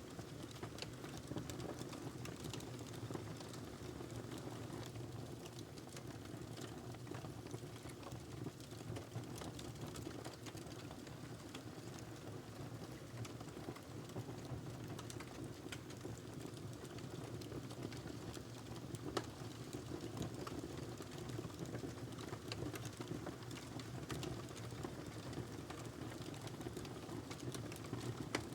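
Wood fire burning in a fireplace: a steady low rush of flame under irregular small crackles and pops from the burning log, with a sharper pop about two-thirds of the way through.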